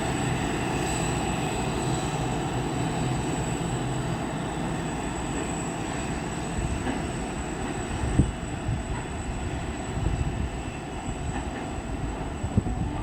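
Freight cement train wagons rolling past on steel rails with a steady rumble, with sharp clunks about eight and ten seconds in and again near the end. The rumble slowly eases as the train goes by.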